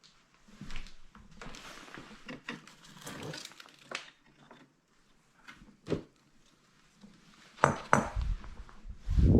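Household objects being handled and knocked about, with irregular clattering and rustling, then a few heavy thumps near the end.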